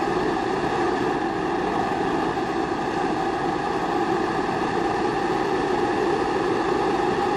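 Kerosene pressure stove (primus) burning steadily with an even, unbroken rushing hiss.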